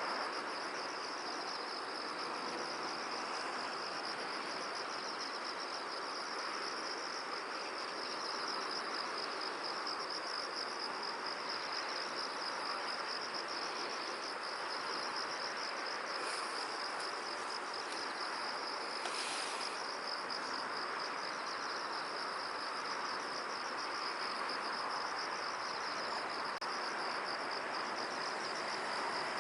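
Insects chirring in a steady, rapidly pulsing high trill that never stops, over an even rush of wind through the field.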